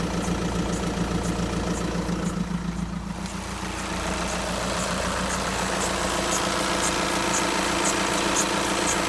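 VW Golf 6 engine idling with the clutch pedal pressed in, with a rattling, pulsing note that dips briefly about three seconds in. The uploader suspects a defective dual-mass flywheel behind the odd noise.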